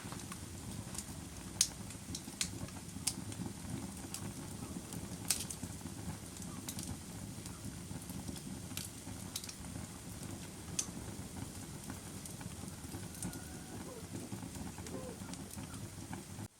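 Fire crackling: a steady low rush of burning with sharp pops and snaps scattered at irregular intervals.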